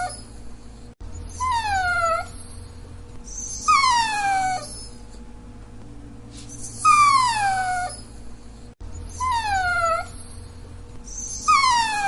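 A dachshund whining in a run of high, drawn-out cries. Each cry falls in pitch and lasts about a second, and about five come at roughly even spacing.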